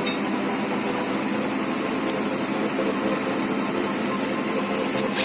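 An engine running steadily at idle, an even drone with a few faint clicks.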